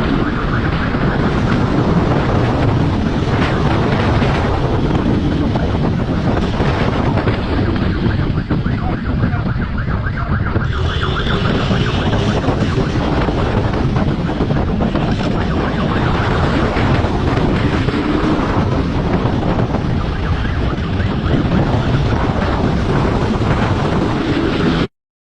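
Loud, steady wind rumble on the microphone mixed with vehicle noise, cutting off suddenly near the end.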